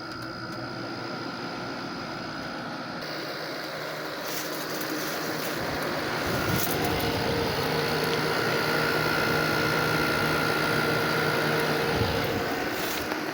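Outdoor side of a 6,300 BTU Emerson Quiet Cool window air conditioner running, with its compressor and condenser fan making a steady hum with several held tones. The compressor has just cycled back on. The sound grows louder from about four seconds in, then holds steady.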